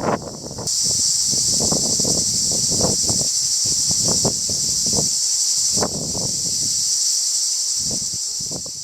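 Strong wind buffeting the microphone in irregular gusts, over a loud, steady, high-pitched insect buzz that sets in under a second in.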